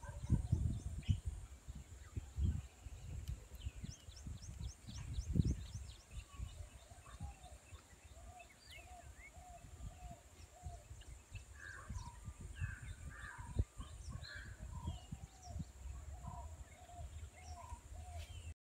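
Outdoor rural ambience: birds calling, with a run of short repeated notes in the middle and louder, higher calls later on, over a steady high hiss. Low gusty rumbling, loudest in the first few seconds, then eases.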